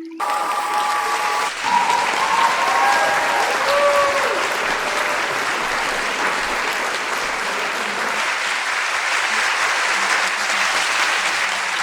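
Large audience applauding steadily, with a few pitched whoops or tones over the clapping in the first few seconds.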